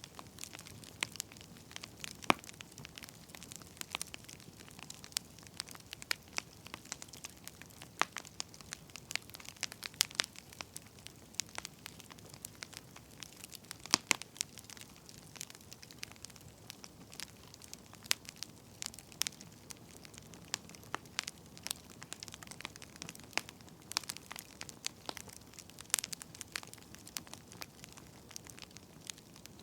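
Wood fire crackling: scattered sharp pops and snaps at uneven intervals over a soft steady hiss, a few pops much louder than the rest.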